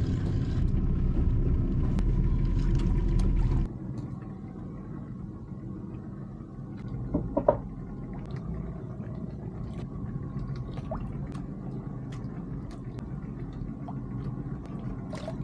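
A boat's motor running with a steady low rumble, loud for the first few seconds and then dropping suddenly to a quieter, even hum. A brief knock about halfway through, and a few light clicks.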